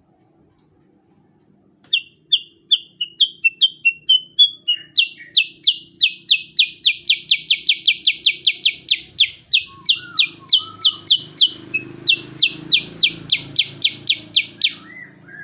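Cucak kurincang, a bulbul, singing a long rapid series of repeated down-slurred whistled notes, about three to four a second. The series starts about two seconds in and stops just before the end.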